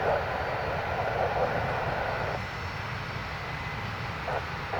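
Steady low rumble of airliner engines at an airport, with a hiss from the air traffic control radio that cuts off abruptly about halfway through.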